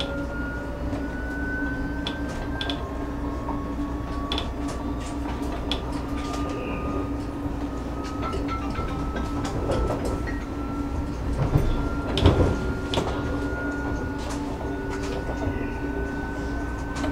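Electric commuter train running, heard from inside the carriage: a steady low rumble with a thin motor whine rising slowly in pitch as the train gathers speed, and scattered clicks and knocks from the wheels on the track. About ten seconds in the rattle grows louder for a few seconds.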